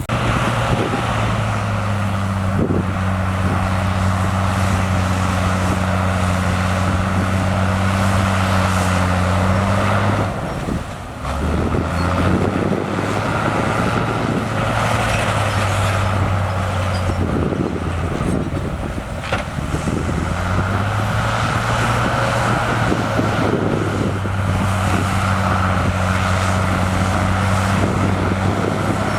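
Heavy diesel engine of earthmoving machinery running steadily. Its pitch drops away about ten seconds in, then climbs back up about twenty seconds in.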